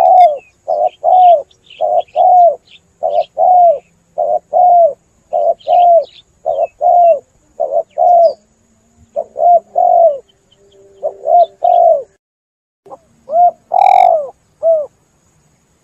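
Spotted dove (tekukur) cooing: a long, rhythmic run of short arched coo notes at about two a second. There is a brief pause about twelve seconds in, then a final phrase. Faint high chirps of a small bird sound above it.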